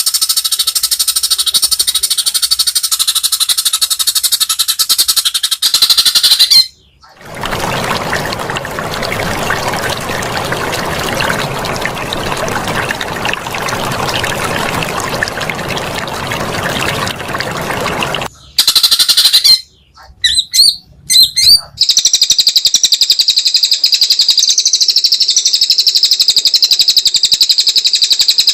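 Recorded bird sounds for songbird training: a long, rapid, high-pitched buzzing trill, then about eleven seconds of harsh hissing noise, a few short choppy bursts, and the fast high trill again near the end.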